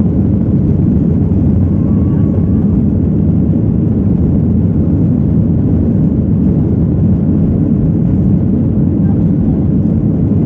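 Steady low roar of a Boeing 737-800's jet engines, holding an even level throughout.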